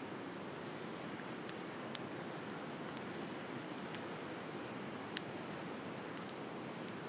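Wood fire crackling with sharp, irregular pops, the loudest about five seconds in, over the steady wash of sea surf.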